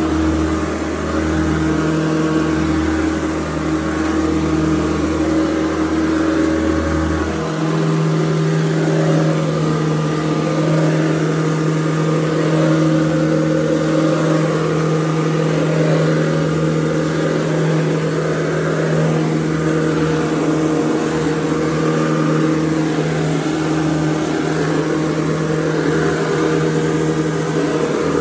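Hoover Convertible U4101 upright vacuum cleaner running steadily with a tough motor hum. About seven seconds in, its tone shifts as the deepest part of the hum drops out.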